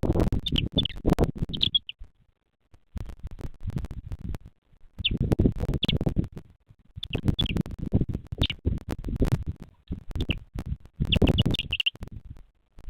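Short high bird chirps, some single and some in quick runs of three or four, over bursts of rough rustling and buffeting noise that start and stop every second or two.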